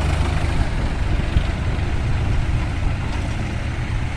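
Tractor diesel engine running steadily, its sound mostly low-pitched with an even pulse.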